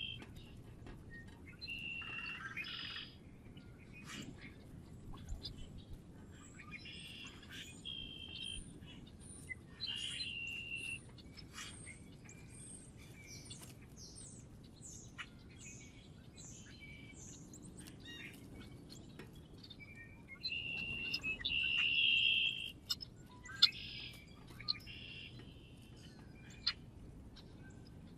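Small songbirds calling and chirping: short call notes come again and again, loudest a little past two-thirds of the way through, with a run of quick, high, thin notes in the middle and a few sharp clicks near the end.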